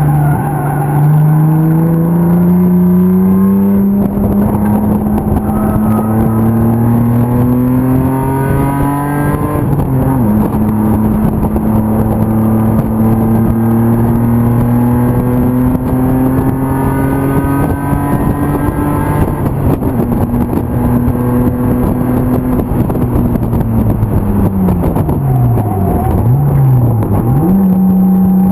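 BMW M50 straight-six engine of a race car under hard acceleration, pitch climbing steadily through the revs with two upshifts about ten seconds apart. Near the end the revs fall off under braking, a quick throttle blip marks a downshift, and the engine pulls again.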